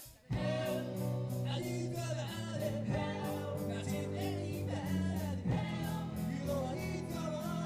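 A live rock band starts a song about a third of a second in, with singing over guitar and a steady beat.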